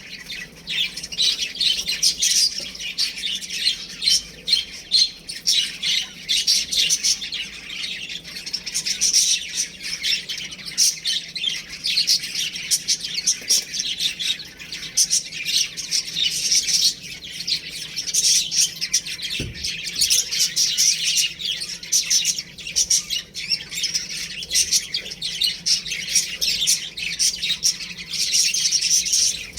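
A group of baby chicks peeping continuously, many short high-pitched calls overlapping.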